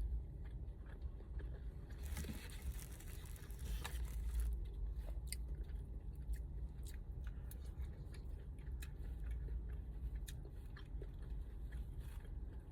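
A person chewing food close to the microphone, with many small wet clicks and smacks and a rustle about two seconds in, over a steady low hum.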